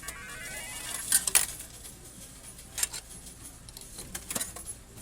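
Coins clinking and clattering in a slot machine, a series of sharp metallic clinks with the loudest about a second in, over a brief run of electronic tones at the start.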